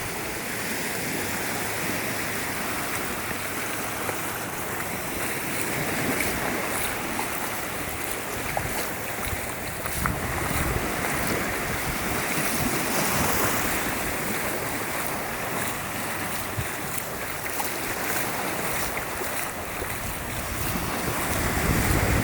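Ocean surf washing steadily on the beach, with wind buffeting the microphone, the low rumble of the wind growing near the end.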